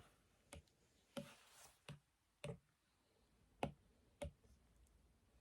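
Light clicks and taps of drawing tools, about six scattered over five seconds, with a brief scratchy rub after the second click; the loudest tap comes about two-thirds of the way through.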